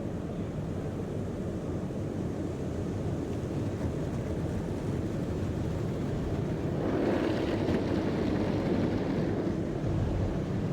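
Steady low rumble heard from inside a car in a tunnel car wash. A louder rushing swell comes in about seven seconds in.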